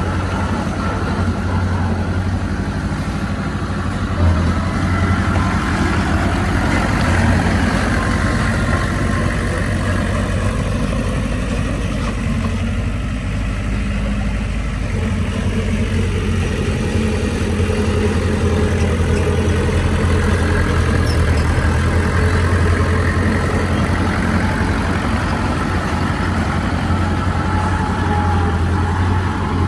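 Heavy diesel engine of earthmoving machinery running steadily with a deep hum, its note rising and falling slightly. A single knock comes about four seconds in.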